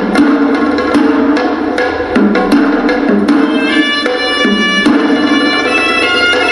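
Hewisi, Sri Lankan temple ritual music: drums beating a fast, steady pattern of sharp strokes. About halfway through, the horanewa, a reedy shawm, comes in over the drums with a held, wavering melody.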